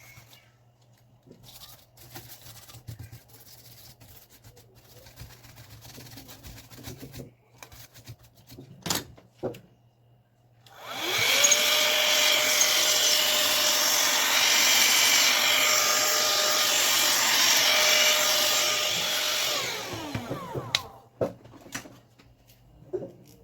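A small electric air blower switched on for about nine seconds: its motor whines up to speed with a rush of air, runs steadily, then winds down. Before it come light clicks and knocks of parts being handled.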